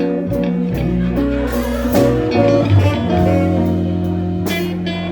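Blues band playing an instrumental passage, with guitar over sustained bass notes.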